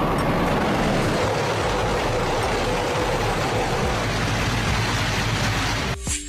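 Shinkansen bullet train passing at high speed: a steady rush of wheels on rail and air with a low rumble, cutting off suddenly near the end.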